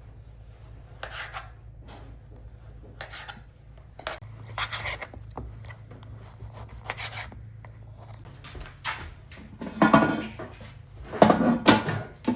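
Kitchen clatter of dishes, pots and utensils being handled and set down, heard as scattered short knocks over a low steady hum. The knocks come thicker and louder near the end.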